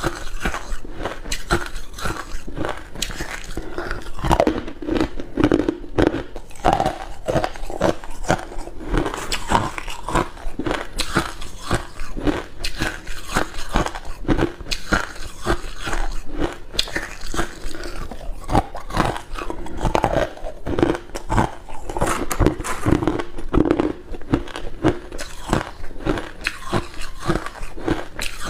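Close-up chewing of hard cube ice: dense, irregular crunching and cracking as the ice is bitten and ground between the teeth.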